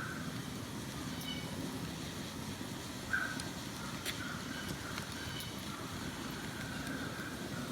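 Steady rush of flowing water, with a few brief bird chirps over it, one about three seconds in.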